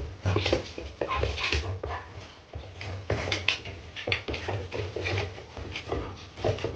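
A dog whimpering in short, irregular bursts.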